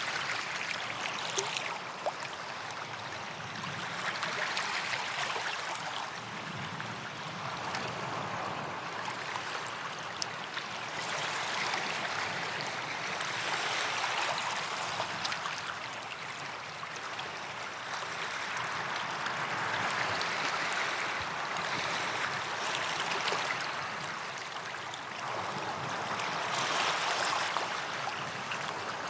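Small waves washing up on a sandy beach, swelling and easing every few seconds with a hiss of foam.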